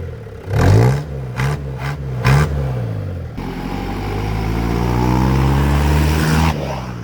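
Mitsubishi L200 pickup engine revved through a newly fitted Borla Pro XS muffler: several quick throttle blips, then revs held up for about three seconds before dropping back near the end.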